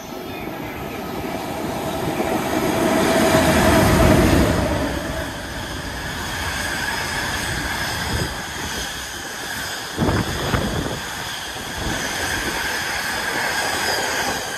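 Freight train of container wagons passing at speed through a station: the rumble builds to its loudest about four seconds in, then the wagons run steadily past with a few sharp wheel knocks over the rail joints around eight and ten seconds in, and a thin high wheel squeal over the top.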